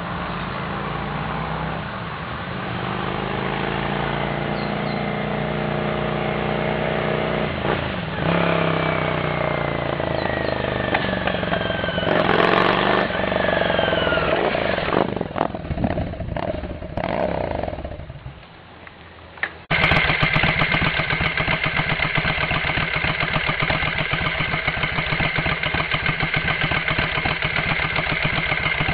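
XVS 535 motorcycle engine running, its pitch wandering and then sliding down in the middle before the sound drops away for a second or two. About twenty seconds in, the engine comes in abruptly, loud and steady with a fast even beat.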